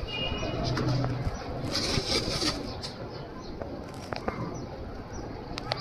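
Domestic pigeons: a burst of wing flapping about two seconds in and low cooing, with a few sharp knocks later and steady outdoor background noise.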